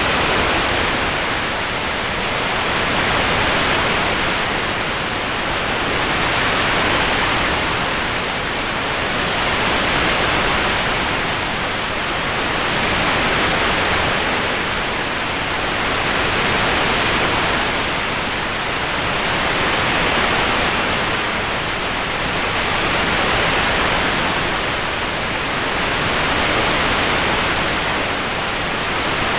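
Steady hiss of a looped rain-sound track with no separate drops or thunder. It swells and eases gently about every three and a half seconds.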